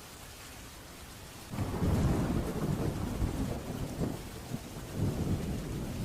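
Steady rain, then about a second and a half in a thunderclap breaks into a loud, low rolling rumble that surges several times and is still rumbling at the end.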